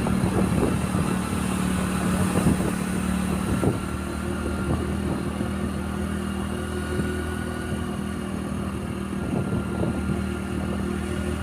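Motorcycle engine running steadily while riding, with a continuous rush of wind and road noise.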